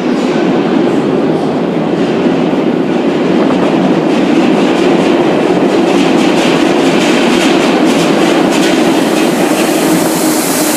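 Electric multiple-unit train running through an underground platform: a loud, steady rumble of wheels on rail with a quick run of clicks over rail joints in the middle.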